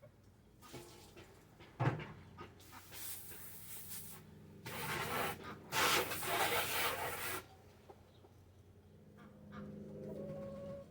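Chickens clucking, among several bursts of noise and a sharp knock about two seconds in.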